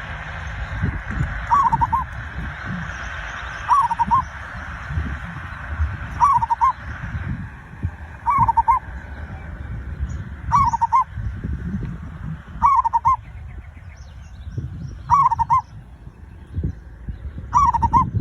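Zebra dove (perkutut) cooing: a short phrase of a few quick notes, repeated about every two seconds, eight times, as a lure call to set other doves singing. A low rumble with soft knocks runs underneath.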